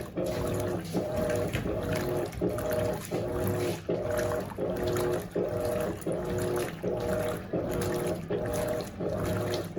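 Electrolux LAC16 top-load washing machine agitating a full tub, its substitute 1/4 hp WEG motor from an LT13B humming in short strokes about every three-quarters of a second, with a brief break at each reversal, over water sloshing.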